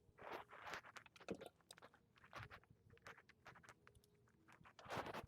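Faint scattered clicks and rubbing of hands handling small carburetor parts as the fuel line is pushed back on, with a louder scrape near the end.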